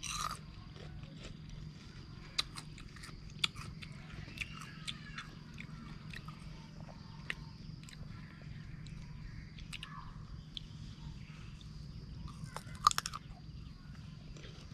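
Crunchy biting and chewing of raw green ambarella fruit: scattered crisp crunches, a sharp one right at the start and the loudest about 13 seconds in.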